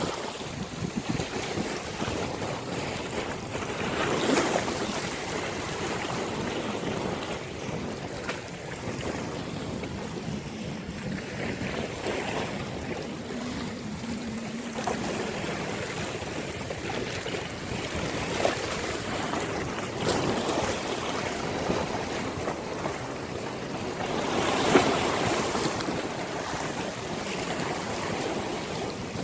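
Sea waves washing onto a beach, with wind buffeting the microphone. A wave swells louder about four seconds in and again near the end.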